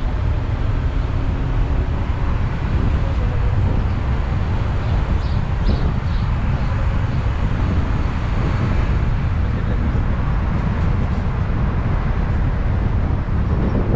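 Steady low rumble of a moving vehicle, with wind noise.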